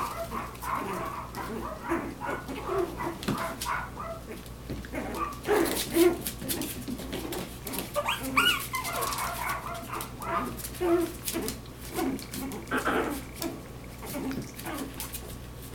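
Yorkshire terrier puppies playing together: frequent short, high little barks and whimpers, with scuffling clicks between them.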